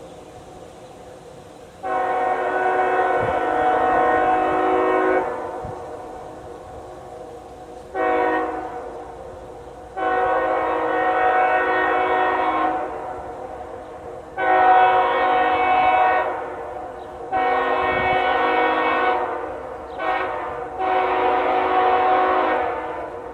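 Train horn sounding a series of seven blasts, mostly long ones of about three seconds with two short ones, over a low rumble of the passing train.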